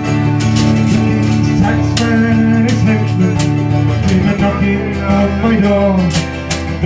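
Live folk band playing a song's instrumental introduction: acoustic guitar strumming over steady held low notes, with a melody line weaving above.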